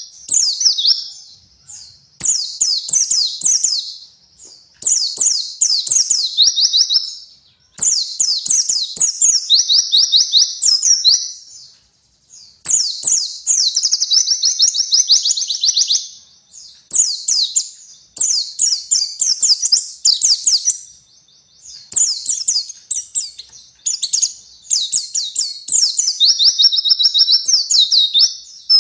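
A white-eye (pleci) singing: a rapid, high-pitched twittering song in phrases a few seconds long, separated by short pauses.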